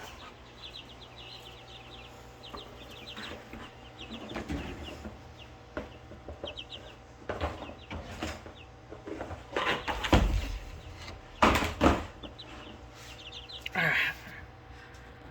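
Young Salmon Faverolles chicks peeping in quick runs of short, high chirps. A few loud bumps break in about ten and twelve seconds in, over a faint steady hum.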